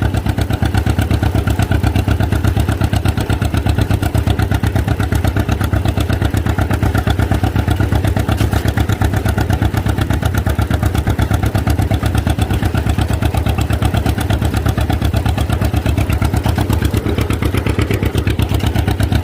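1949 John Deere G's two-cylinder engine pulling steadily in sixth gear, its exhaust firing in an even, rapid beat that holds the same pace.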